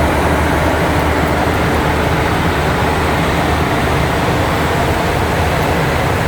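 Steady cockpit noise of a Boeing 737NG in flight: a constant rush of air with a low hum underneath.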